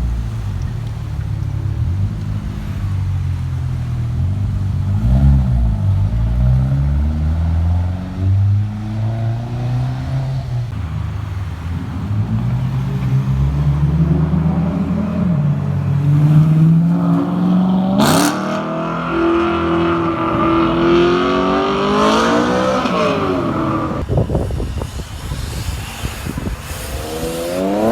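Car engines accelerating hard, their pitch climbing and dropping again and again as they pull through the gears. About two-thirds of the way through, the sound breaks sharply to a higher-pitched engine revving up, and another engine revs up near the end.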